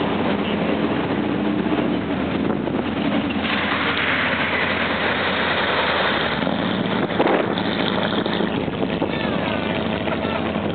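Vehicle engine running steadily under wind on the microphone, with a rush of hiss for about three seconds midway and a short knock just after it.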